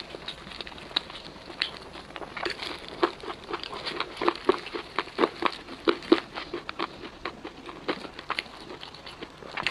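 Crispy fried chicken being bitten and chewed close to the microphone: a run of irregular crunching crackles, busiest in the middle.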